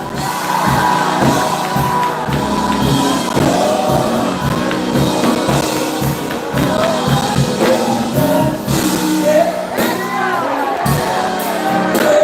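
Live gospel music: voices singing over a band with a regular drum beat.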